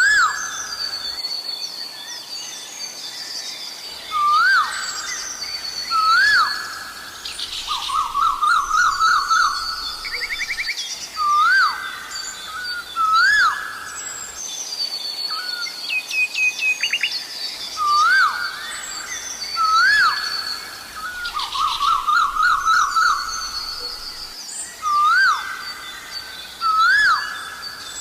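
Asian koel calling, a rising "ko-el" call repeated about every two seconds, with two runs of rapid repeated notes. Other small birds twitter at a higher pitch throughout.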